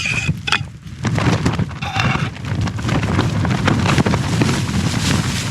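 Tent fabric flapping and buffeting hard in gusty wind, heard from inside the tent: a loud, irregular rumble with quick slaps of the flysheet.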